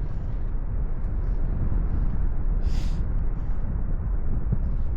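Wind rushing over the microphone of a paraglider in flight: a steady, heavy low rumble, with a brief hiss near the middle.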